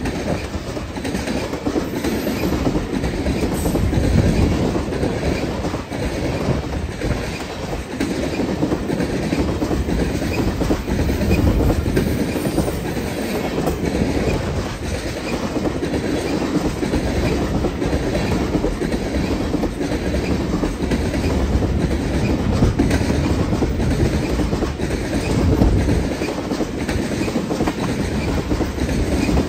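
A train's cars rolling past close by, their steel wheels clicking over the rail joints without a break.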